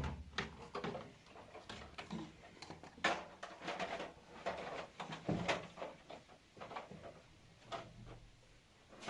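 Scattered light knocks and clicks at an irregular pace, the sound of household objects being handled in a small room.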